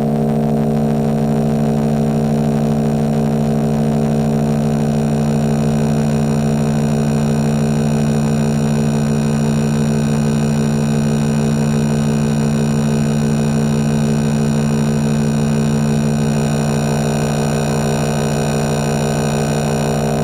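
Sequential Circuits Prophet VS vector synthesizer holding a steady drone, several tones sounding together, unchanging in pitch and loudness.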